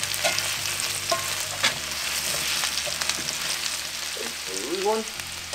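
Potatoes frying in oil in a cast-iron skillet, sizzling steadily, while metal tongs toss them, with repeated clicks and scrapes of the tongs against the pan.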